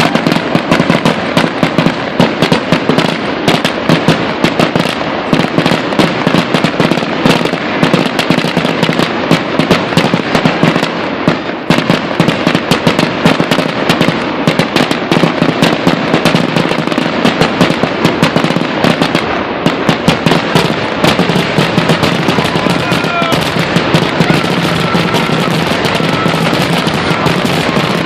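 A dense fireworks barrage: bangs and crackling come many times a second and run together without a break.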